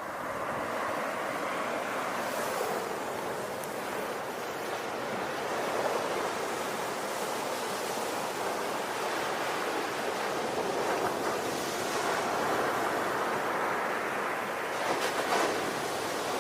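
Ocean waves washing onto a shore in a continuous, steady wash of surf that swells gently now and then.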